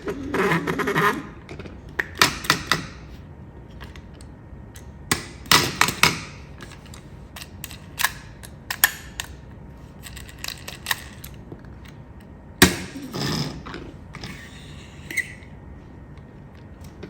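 Scattered clicks, clacks and short rattles of hard objects being handled, coming in clusters every second or two, with one sharp knock late on.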